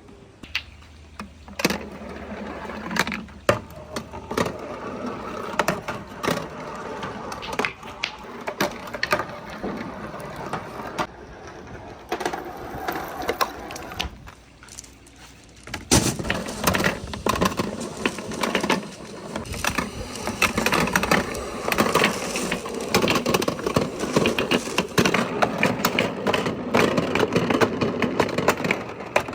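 Balls rolling and clacking down a wooden marble run. At first the clicks come separately; from about halfway through, many balls run at once in a dense, continuous clatter.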